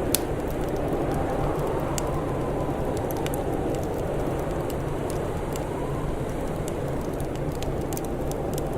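Wood fire crackling, with scattered sharp pops and snaps over a steady low rushing background; one louder pop right at the start.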